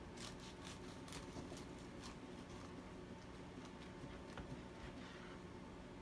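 Knife cutting through a sandwich of bread, bacon and romaine: faint, scattered crunching clicks, most of them in the first two seconds.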